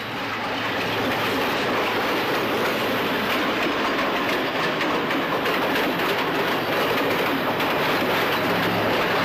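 Sri Lanka Railways train running along the track: a steady noise of wheels on rails that swells up in the first second and then holds.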